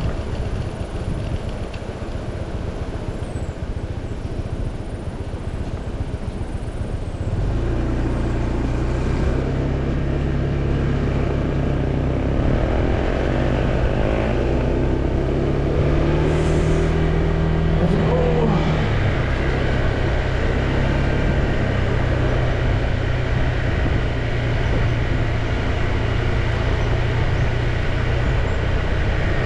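Motorcycle engine running during a ride, over a constant rush of wind and road noise; the engine grows louder about seven seconds in.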